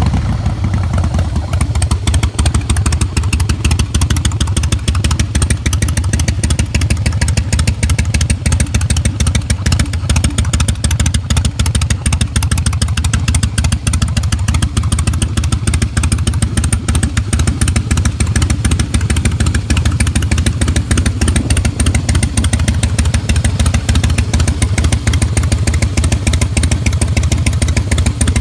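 Harley-Davidson FXSB Breakout's V-twin engine idling steadily through its exhaust, freshly started, with a lumpy, even pulse and no revving.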